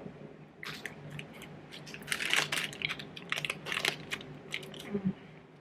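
Irregular close-up crackling and crinkling clicks from a snack being handled and eaten: a crinkly plastic wrapper and a chocolate-covered cookie bar with caramel, busiest around the middle.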